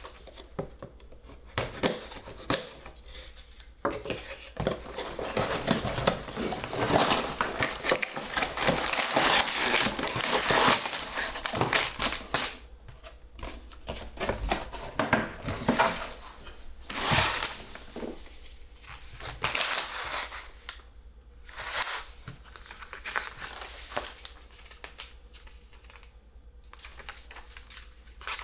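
LEGO set packaging being handled and opened: crinkling and rustling of the plastic parts bag and box, with scattered clicks. The rustling is loudest and most continuous in the first half, then comes in shorter bursts.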